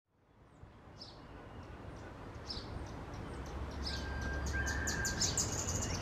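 Small birds chirping again and again, more often toward the end, over steady outdoor background noise that fades in from silence at the start. Just past the middle come two short, faint, steady tones one after the other: the radio activation tones that set off the siren test.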